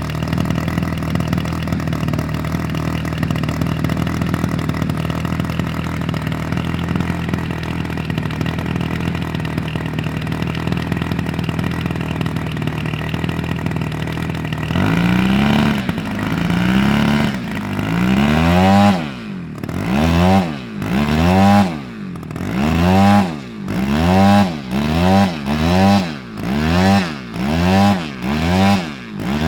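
Engine of a large radio-controlled model airplane running steadily. About halfway through it is revved up and down over and over, roughly once a second.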